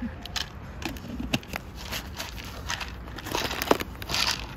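Irregular crackling and crinkling clicks over a steady low rumble.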